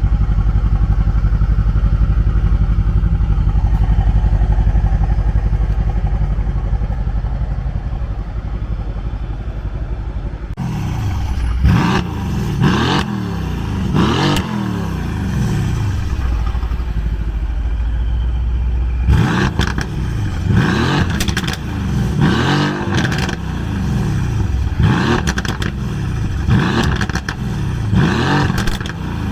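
Tuned Mercedes-AMG C63 S engine running at a steady low note for about ten seconds, then revved in quick blips, each a sharp rise and fall in pitch. After a short steady stretch it is revved again over and over, about once a second, near the end.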